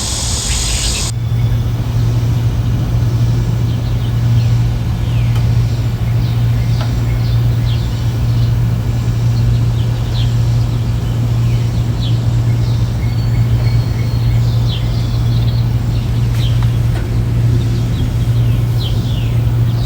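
Small birds giving short, high, falling chirps scattered throughout, over a steady low hum or rumble that is the loudest part.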